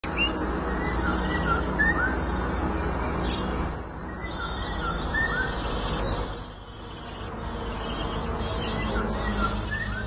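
Small birds chirping in the forest: short, quick rising notes in scattered groups over a steady high-pitched background buzz. A single sharp click comes about three seconds in.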